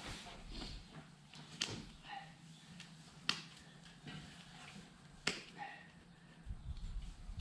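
Hoof trimming shears snipping a goat's hooves: three sharp clicks about two seconds apart, with a low rumble near the end.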